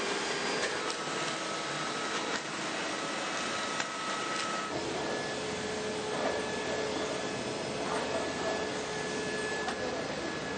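Makita DVC660V cordless backpack vacuum cleaner running with a steady rushing hum. About five seconds in, its tone steps up to a higher pitch and the sound gets fuller.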